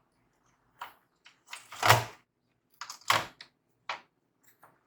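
Hard plastic laptop parts knocking and clicking as they are handled and fitted back together, with a louder thump about two seconds in and a short cluster of clicks near the three-second mark.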